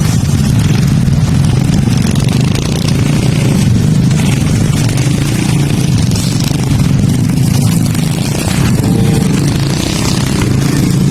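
A vehicle engine running steadily under a loud, even low rumble.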